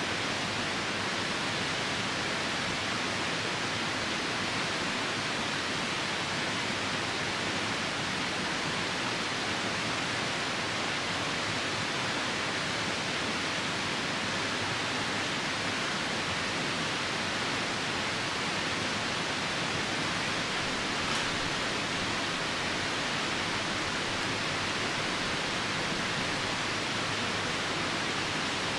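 Steady rushing of a nearby river, a constant even roar that covers the campfire, with one faint click about three-quarters of the way through.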